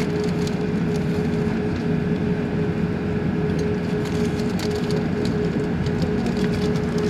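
Cabin noise inside an Airbus A380 on the ground just before takeoff: a steady rumble with a constant hum tone running through it, and faint light rattles.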